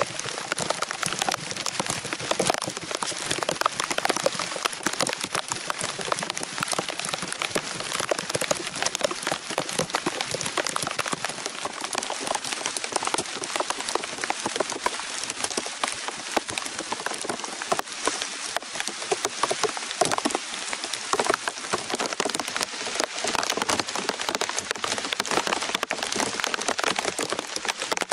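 Heavy rain falling steadily on forest foliage and the ground, a dense, even patter of countless drops.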